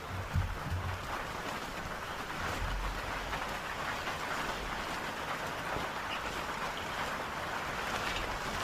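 Heavy rain falling steadily, an even hiss, with a few soft low thumps in the first second.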